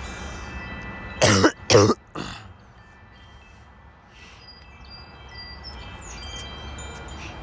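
Wind chimes ringing lightly in gusty wind, several held tones with scattered higher strikes later on. About a second in, a person coughs two or three times, louder than the chimes.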